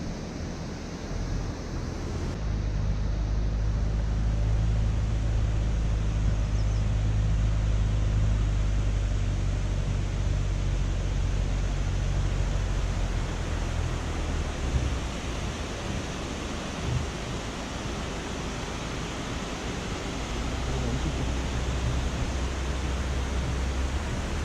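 Road and engine noise of a moving car: a steady rush with a low drone that strengthens about two seconds in, eases around the middle and builds again near the end.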